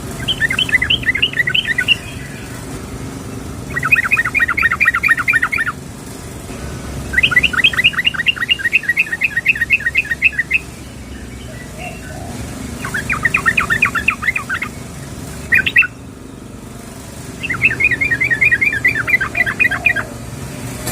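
Yellow-vented bulbul (trucukan) singing: six bubbling phrases of quick repeated notes, each up to about three seconds long, with brief pauses between them. The fifth phrase is only a short burst. A low steady hum lies underneath.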